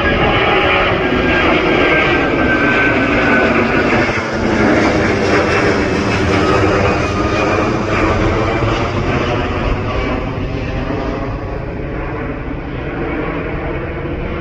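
Jet airliner's engines at takeoff power: a loud, steady rush with a thin whine over it during the first few seconds. The sound eases slowly toward the end.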